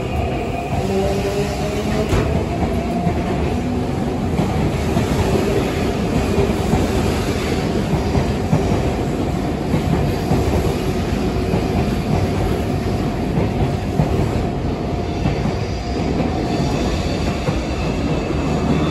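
Sotetsu Line electric commuter train running along the platform, with the steady rumble and clatter of its wheels on the rails and a motor whine rising slightly in pitch in the first few seconds.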